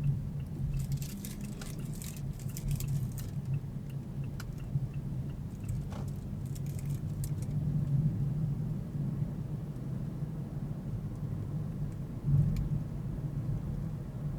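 Steady low hum of a car, picked up inside the cabin by a dash cam's built-in microphone, with scattered small clicks and rattles in the first few seconds, again around the middle, and one sharper click near the end.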